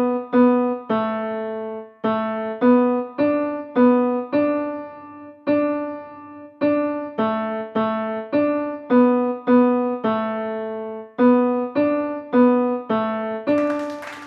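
Piano-like keyboard playing a simple melody of separate struck notes, about two a second, mostly two notes sounded together, each fading after it is struck. Applause starts near the end.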